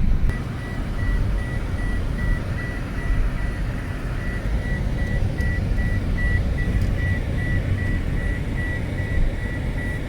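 Car engine running with a steady low rumble, under an evenly repeating high-pitched electronic beep such as a vehicle's reversing or warning beeper.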